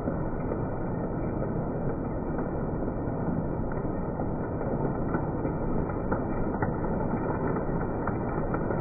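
Model train running on its track: a steady rumble with a few faint clicks.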